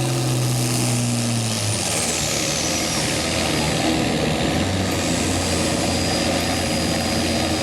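Diesel pulling tractor engine running hard, its pitch dropping about two seconds in, with a high falling whistle over the engine noise.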